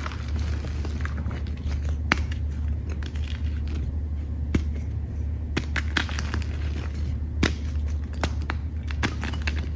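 Chalk and reformed chalk crunching close to the microphone: irregular sharp crackles and snaps, a few louder ones, over a steady low hum.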